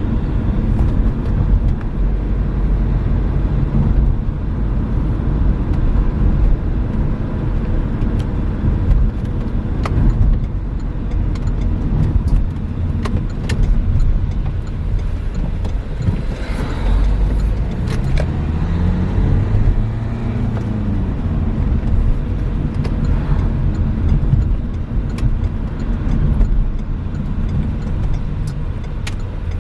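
Renault Megane III driving on a village road: a steady low rumble of engine and road noise with scattered small knocks and rattles. About two-thirds of the way through, the engine pitch rises and then falls again.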